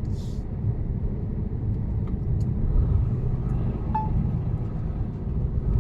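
Mercedes-Benz Actros truck under way, heard from inside the cab: steady low rumble of the diesel engine and road noise, with a brief hiss right at the start.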